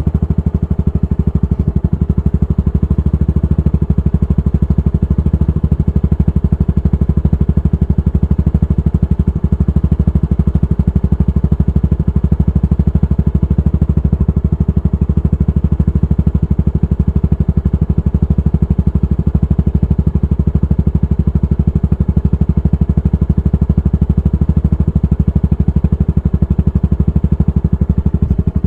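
Yamaha SR400's air-cooled single-cylinder engine running at a steady, even beat through an aftermarket GOODS tapered cone muffler.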